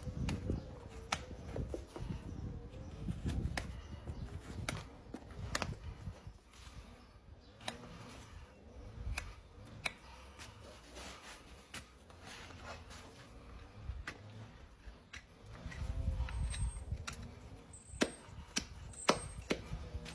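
Hoof-care tools working on a horse's hoof, giving irregular sharp clicks and snips over low handling rumble.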